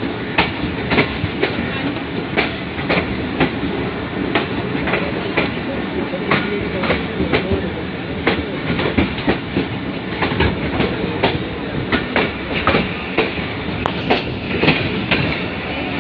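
Millat Express passenger train running, heard from on board: a constant rumble with the wheels clicking over rail joints about twice a second.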